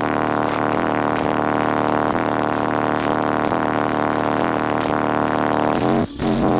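Loud music played through a competition car audio system of ten 18-inch subwoofers, heard from inside the vehicle. The sound dips sharply for a moment about six seconds in.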